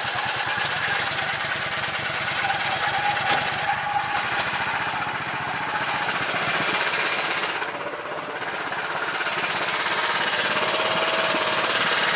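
A karakat's engine running with a rapid, even firing beat as it drives through a swampy ford. The engine note dips briefly about eight seconds in, then steadies.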